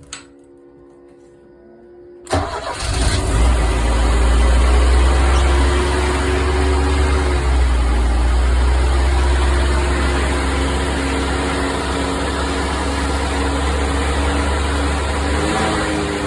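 Cold start of a Mercedes-Benz 409 fire truck's engine. A couple of clicks, then a low hum, then about two seconds in the starter cranks briefly and the engine catches. It settles into a steady idle.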